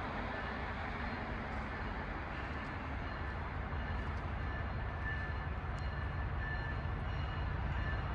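Approaching train heard at a distance: a low, steady rumble that grows slightly louder.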